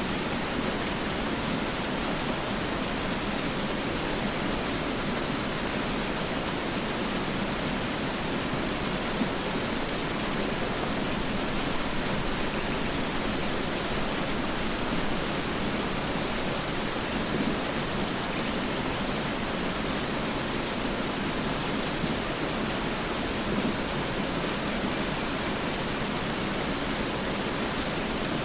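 Mountain river rushing steadily over rocks, an even unbroken roar of water.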